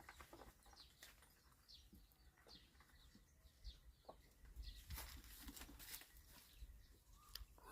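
Near silence with faint bird chirps: a scattering of short, high notes that each slide downward, and a few soft knocks.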